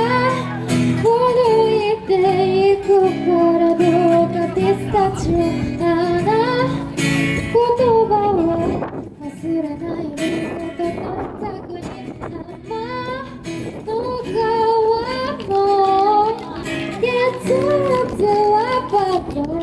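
A woman singing a pop ballad live with guitar accompaniment. Her voice drops out for a few seconds about halfway through while the accompaniment carries on, then comes back.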